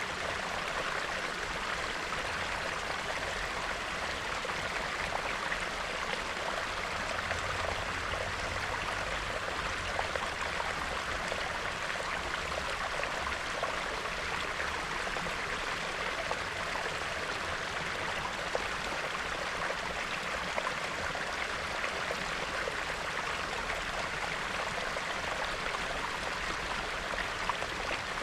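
Small, shallow stream of clear snow-melt water bubbling and babbling over stones, a steady, even burble with small splashes and gurgles.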